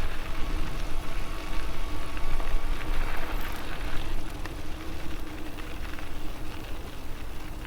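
Riding noise from an electric bike on the move: a steady low rumble of wind and tyres with a faint steady hum, and a short louder rush of noise about three seconds in.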